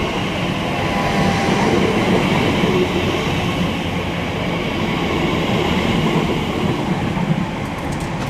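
Class 345 electric multiple unit at the station platform, a steady train noise that keeps an even level throughout.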